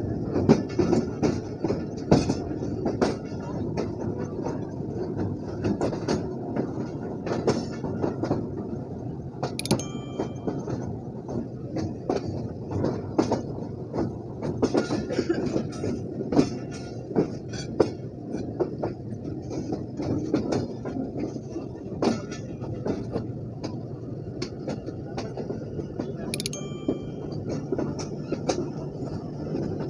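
ZCU20 diesel-electric locomotive running as the train pulls slowly away, with the wheels clicking and knocking over rail joints and points. Two brief high-pitched sounds come through, one about ten seconds in and one near the end.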